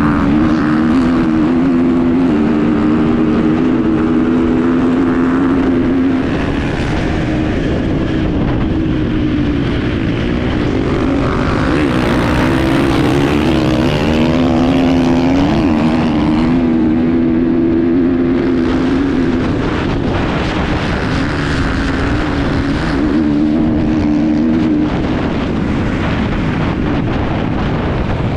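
Enduro motorcycle engine running hard, heard from a camera mounted on the bike. Its pitch rises and falls as the rider works the throttle, with short drops every several seconds.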